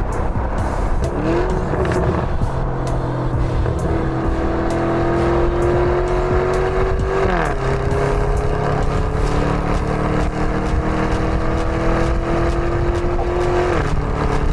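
Lamborghini Urus's twin-turbo V8 under acceleration, its pitch climbing slowly through a gear and dropping sharply at an upshift about seven seconds in, then climbing again until a second upshift near the end.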